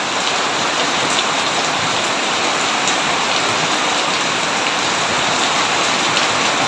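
Heavy rain falling steadily on a tin roof, a dense even hiss with single drops ticking through it. No thunder.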